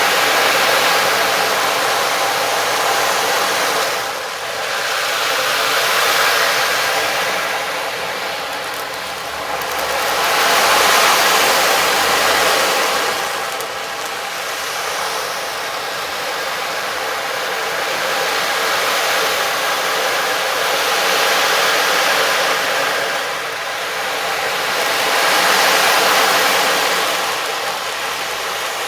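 A rushing, hiss-like wash of sound from a sound-healing instrument, swelling and fading in slow waves about every four to five seconds over faint steady tones.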